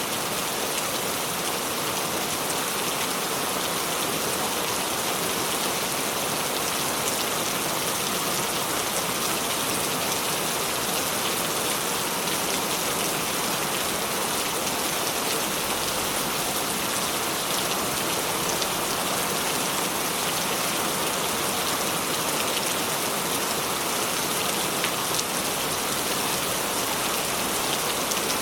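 Steady rain falling, an even hiss sprinkled with the patter of individual drops.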